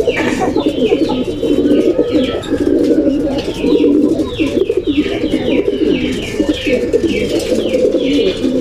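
Many racing pigeons cooing together in a loft: a dense, continuous chorus of low coos. Short, high, falling chirps repeat over it throughout.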